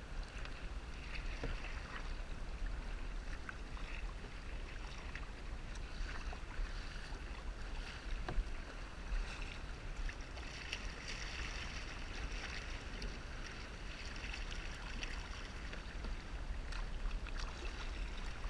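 Water splashing and lapping around a kayak at sea as it is paddled, a steady wash with a few scattered small knocks and drips.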